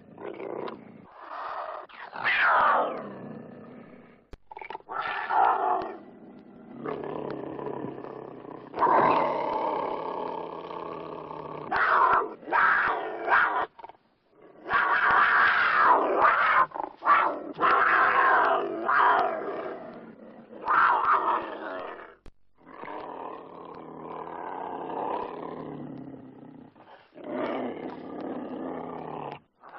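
Cougar growling, snarling and roaring in a string of separate rough calls with short breaks between them; one about two seconds in slides steeply down in pitch.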